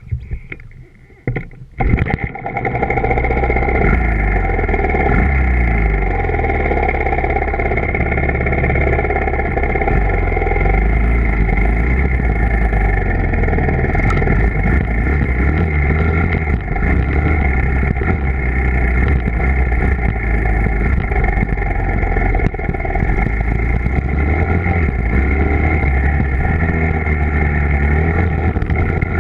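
Dirt bike engine comes in loudly about two seconds in after a few knocks, then runs continuously with the revs rising and falling.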